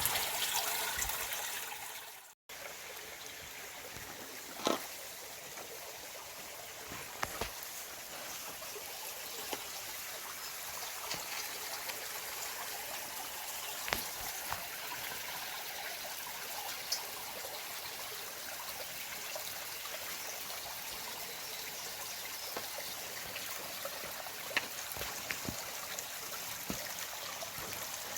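Water trickling and flowing steadily in a small stream, with a brief cut-out about two seconds in and a few faint clicks.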